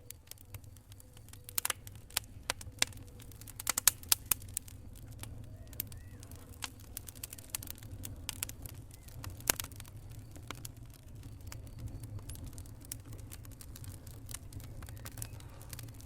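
Wood fire crackling in a fireplace: irregular sharp pops, thickest and loudest about two to four seconds in, over a low steady rumble.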